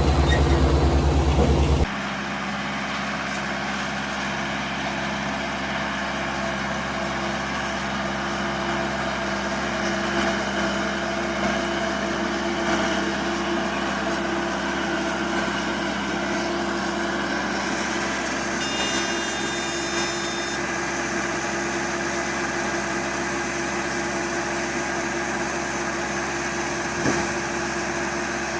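Yanmar compact tractor running a PTO-driven Yanmar mini round baler, a steady mechanical drone with a constant whirring hum. The opening two seconds are louder and deeper, then cut off sharply. About two-thirds through, a high-pitched electronic tone sounds for about two seconds.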